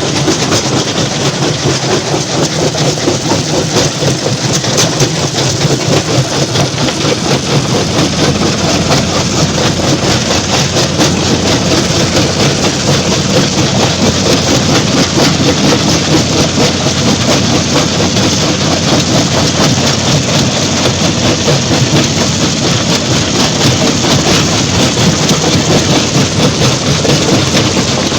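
Stone crusher plant machinery running under load: a steady heavy engine drone under a dense, rapid, continuous clatter of rock.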